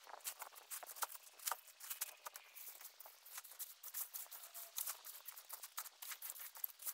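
Many irregular light clicks, knocks and scuffs in quick succession, with no steady machine sound.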